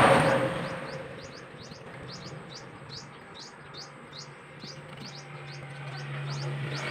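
A small bird chirping over and over, short high chirps about three a second, over a steady low hum. A burst of broad noise fades away in the first second.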